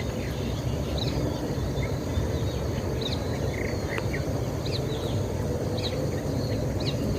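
Short, high bird chirps, roughly one a second, over a steady low background rumble.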